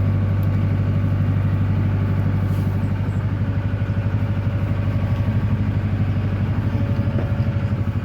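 Narrowboat's diesel engine running steadily under way, with an even low chug.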